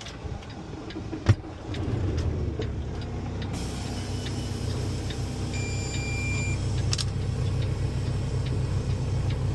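Truck engine heard from inside the cab, droning steadily as the truck pulls away, after a sharp click about a second in. A short high beep sounds midway through.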